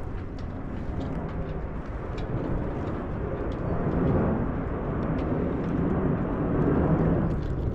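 Jet aircraft rumbling overhead: a low, noisy roar that swells through the second half and eases near the end, with faint light ticks on top.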